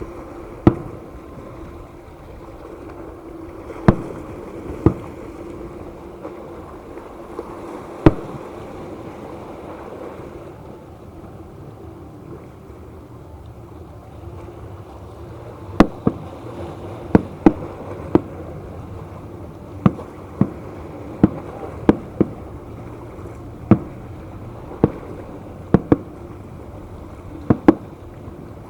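Fireworks shells bursting with sharp bangs: a few widely spaced ones at first, then a quicker run of about fifteen from just past halfway, over a steady background rumble with a low hum.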